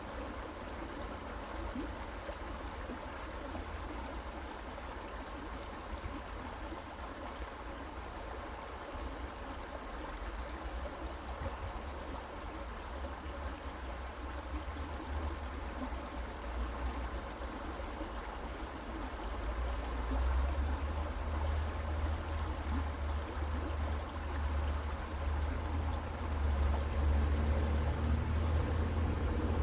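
Creek water flowing and trickling steadily. A low rumble underneath grows louder about two-thirds of the way through.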